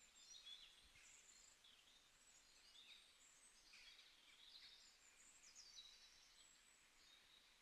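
Faint birdsong: small birds chirping repeatedly over a low background hiss.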